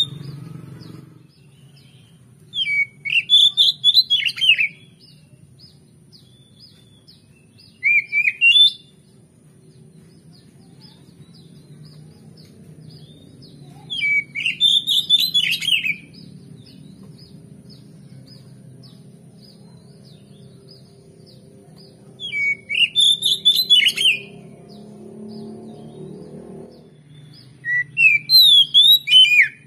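Oriental magpie-robin (kacer) singing in five short bursts of clear whistled, sweeping phrases, with pauses of several seconds between them, over a faint low hum.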